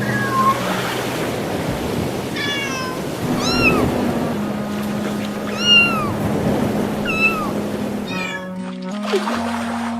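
A cat meowing, about five short rising-and-falling meows a second or so apart, over a steady rushing background. A plucked guitar tune comes in near the end.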